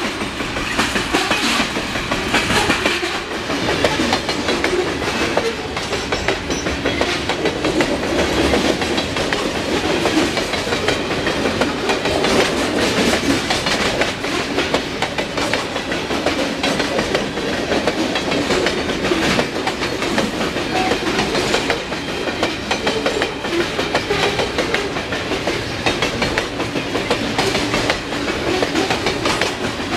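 Freight train cars rolling steadily past, their wheels clattering over the rails in a continuous clickety-clack.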